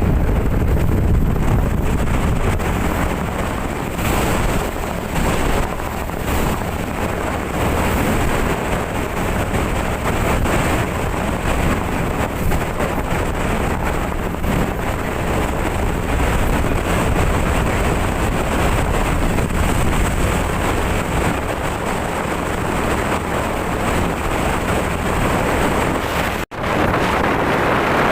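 Steady wind noise on the microphone aboard a boat at sea, over the boat's running noise and the waves. The sound cuts out for an instant near the end.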